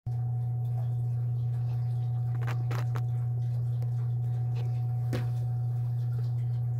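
A steady, loud low hum with a thin, fainter higher tone above it, and a few faint clicks.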